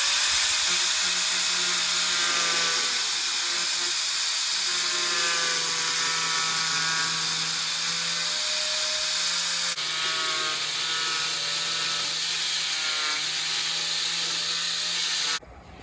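Power tool, likely an angle grinder, cutting notches for hinges in steel tailgate sheet metal. A steady, harsh cutting noise with a motor whine that wavers as the load changes, stopping suddenly near the end.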